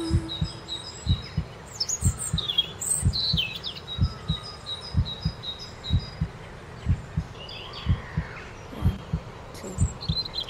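A heartbeat thumping steadily in lub-dub pairs, about once a second, under birds chirping and singing with short repeated high notes. A held music note fades out just at the start.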